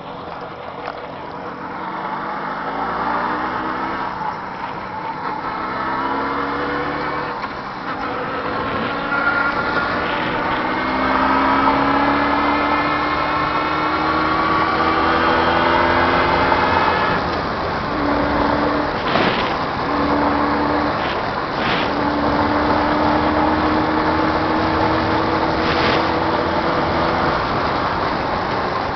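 Jawa 638's two-stroke twin engine pulling a ride through the gears: the revs climb in several steps, dropping at each shift, then hold at a fairly steady speed with two brief breaks. The engine is being run in after a rebuild. A few short knocks are heard in the second half.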